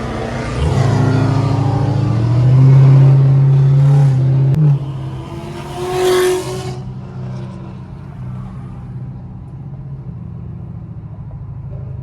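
Car engine pulling away and accelerating, its pitch climbing and holding strong for a few seconds, then backing off to a quieter steady run; a short loud rush about six seconds in.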